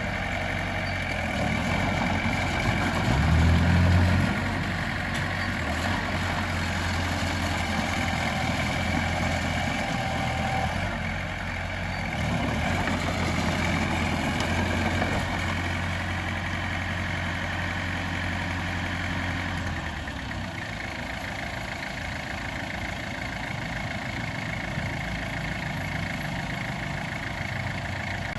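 Diesel engine of heavy earthmoving equipment running steadily, with a brief louder surge about three seconds in; the deep low hum drops away about twenty seconds in, leaving a lighter engine sound.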